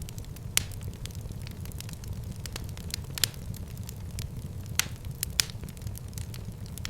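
Fire burning in a fireplace: a steady low rumble with scattered sharp crackles and pops, a handful of them louder than the rest.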